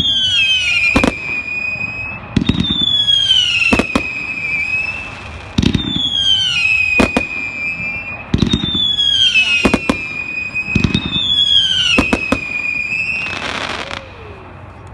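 Consumer 500-gram fireworks cake, item "Meltdown", firing five shots about three seconds apart. Each shot is a launch thump, then a whistle that falls in pitch and levels off, then a sharp bang in the air.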